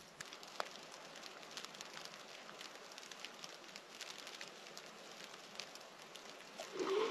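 Campfire of thick logs burning, crackling with scattered sharp pops over a steady hiss. Near the end a brief, louder sound with some pitch to it rises over the crackle.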